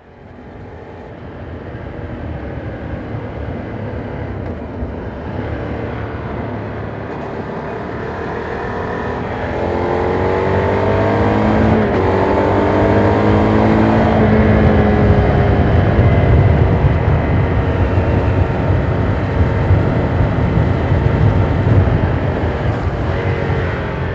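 Ducati Monster 797's air-cooled 803 cc V-twin on its quiet stock exhaust, heard from the rider's back: it fades in, then revs climb twice with an upshift between them about halfway through, and the revs fall away on the throttle-off. Wind rumble runs under the engine and grows louder later on.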